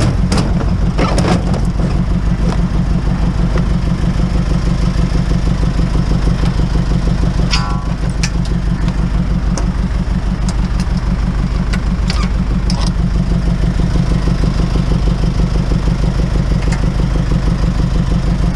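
Truck engine running steadily with road rumble while driving, with occasional light rattles and clicks.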